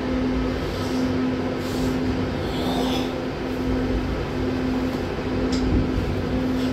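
Running noise of an Intercity Premium electric train heard from on board as it rolls through the station throat: a steady low rumble with a constant hum, and a few short clicks and squeaks from the wheels, the sharpest about five and a half seconds in as it crosses the switches.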